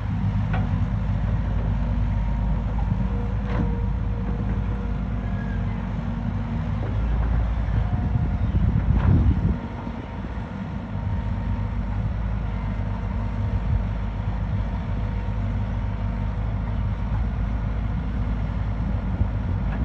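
Bulldozer's diesel engine running steadily, swelling louder from about seven seconds in and dropping back suddenly near ten seconds.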